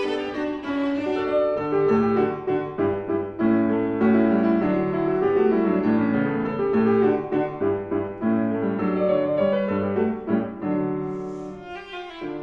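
Piano and viola playing chamber music together, the piano most prominent; the playing grows softer near the end.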